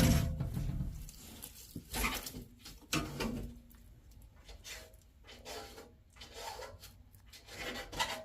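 Black-throated monitor lizard eating hard-boiled eggs: a scatter of short, irregular mouthing and chewing sounds. A louder noise fades away in the first second.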